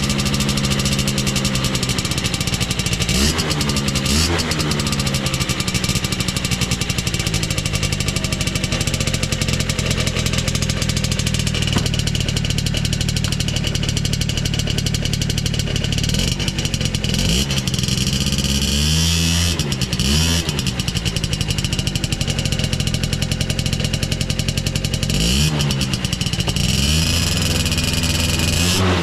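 Two-stroke motorcycle engine idling through a vintage HI-R Hurricane expansion-chamber exhaust, with several short throttle blips that rise and fall quickly. It runs smoothly with no abnormal noises.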